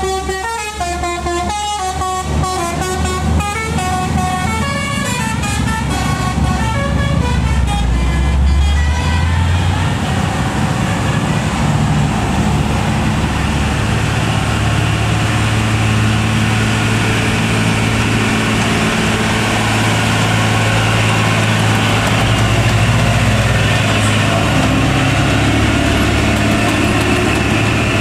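A multi-note truck horn plays a run of changing pitches for the first several seconds. Then a heavy truck's diesel engine runs loud and steady, pulling hard up a steep grade.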